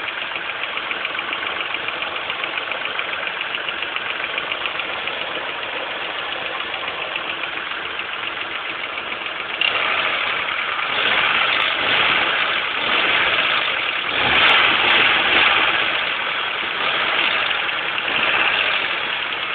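Car engine running with a fast, even ticking chatter. About ten seconds in, the noise suddenly gets louder and swells up and down several times. The owner wonders whether it comes from a worn-out belt.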